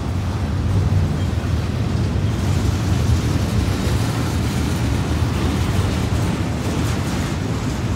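Double-stack intermodal freight train passing close by: a steady low rumble of steel wheels rolling over the rails.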